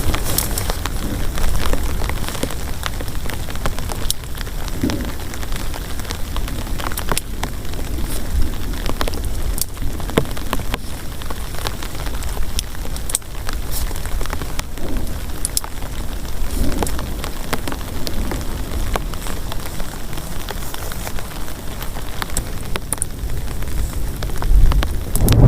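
Rain falling steadily on a surface, with many scattered sharp drop hits standing out from the steady hiss.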